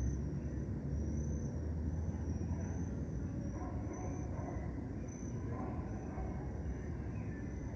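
Dusk park ambience: a cricket giving short high chirps about once a second over a steady low rumble of distant city traffic, with faint bird calls.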